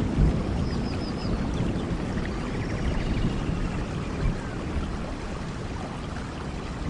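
Steady heavy rain in a rainforest with a low rumble under it, and four faint, quick, high chirps about a second in.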